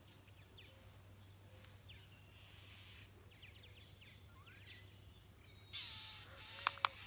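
Faint high chirps over a low hiss, then about six seconds in a louder animal call with a wavering pitch and two sharp clicks.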